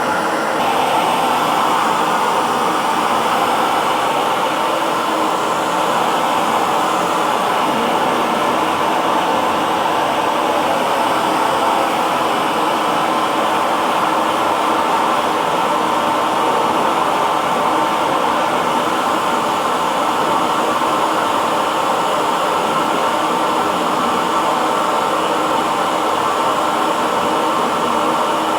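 Electric hair dryer running steadily, a constant whooshing blow of air with a faint motor whine, its tone shifting slightly about half a second in.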